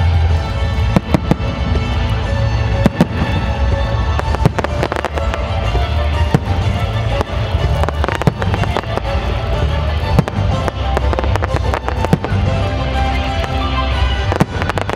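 Fireworks display going off in rapid, irregular bangs, over music with a heavy bass that plays throughout.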